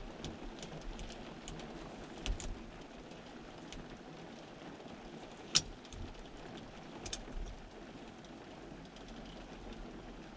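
Steady rain hiss with scattered sharp drips ticking close by, the loudest about five and a half seconds in.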